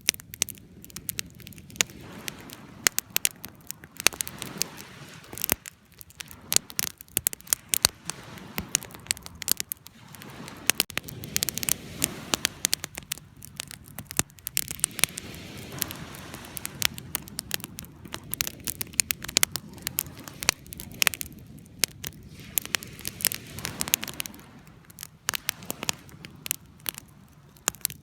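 Wood fire burning, with frequent irregular sharp crackles and pops over a low steady rush of flame.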